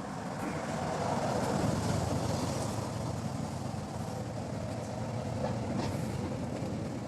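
A motor vehicle rumbling close by. It swells about a second in, stays loud, and eases off a little near the end.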